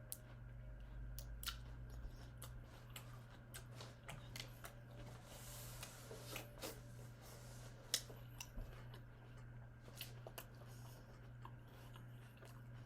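Faint scattered clicks and small cracks of whole prawns being broken apart and peeled by hand, with some chewing, over a steady low hum.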